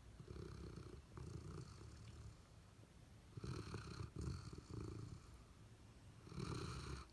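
A sleeping retriever dog snoring: several low snores in a slow rhythm of breaths, louder about halfway through and again near the end.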